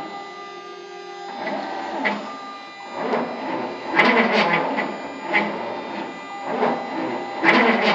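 CNC router's stepper motors whining as the machine moves on a test run, with steady tones and louder stretches as the axes change speed.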